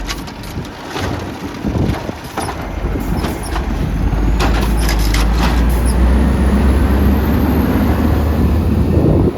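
Garbage truck running, with knocks and clatter over the first few seconds. About four seconds in, its engine comes up to a strong low steady drone, which drops off just before the end.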